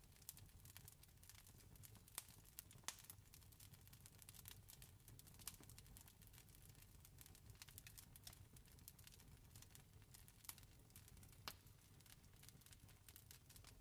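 Campfire crackling: a steady scatter of small sharp pops with a few louder snaps, over a low steady rumble.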